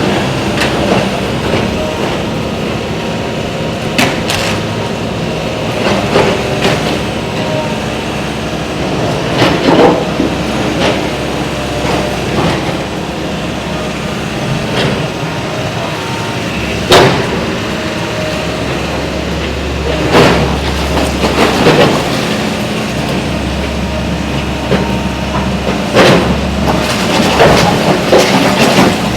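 Building demolition: heavy machinery runs with a steady low rumble while irregular loud crashes, knocks and clanks of breaking structure come every few seconds, the sharpest about ten seconds in and around seventeen seconds.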